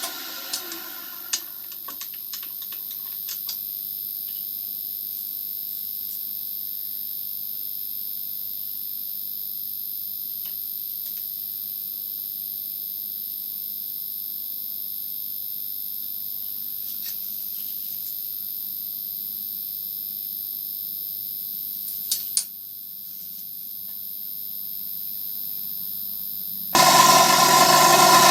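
Workshop machine tool stopped, leaving a steady high-pitched electrical whine with a few sharp clicks of metal being handled. Near the end the machine starts up again and runs loudly.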